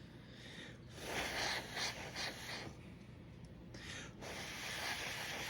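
A person blowing short puffs of breath onto a model locomotive to push a wet paint wash into its crevices: a run of puffs about a second in, then two more near the end.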